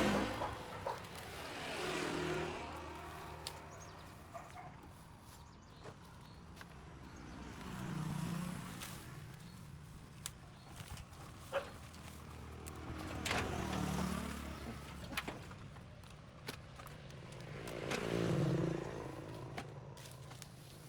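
Road traffic: vehicles passing one after another, about every five seconds, each rising and falling in pitch as it swells and fades. Scattered sharp clicks sound between the passes.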